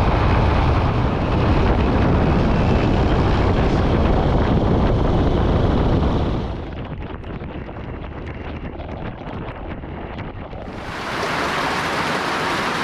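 Wind buffeting the microphone while travelling on the road, over a vehicle's running noise. About six and a half seconds in, it drops off abruptly to a quieter, duller noise, and a few seconds later a steady hiss comes in.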